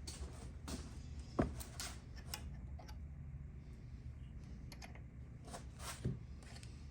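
Scattered light clicks and knocks of tools and small metal parts being handled during an engine teardown, with a louder knock about a second and a half in and another near the end, over a steady low hum.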